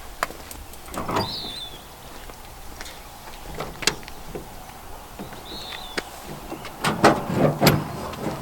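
Camp cooking gear being handled: scattered clicks, knocks and scraping, busiest and loudest near the end.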